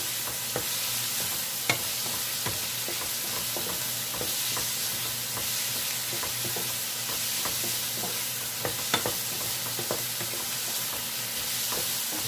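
Chopped garlic, onion and green chili sizzling steadily in a non-stick pan as a wooden spatula stirs them, with irregular scrapes and taps of the spatula against the pan.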